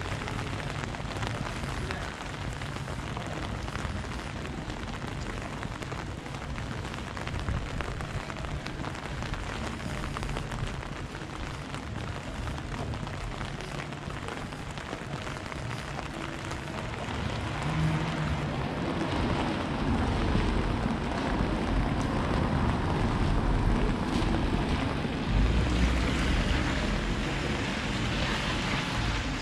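Rain falling on an umbrella held overhead and on the wet pavement: a steady hiss of drops that grows louder about two-thirds of the way through.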